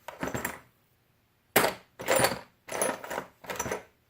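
Loose metal washers and small parts clinking and clattering as they are sifted through by hand, in about five short bursts.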